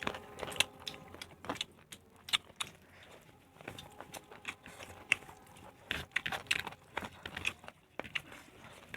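Eating a meal from a plate: irregular small clicks and clinks of dishes and food being handled.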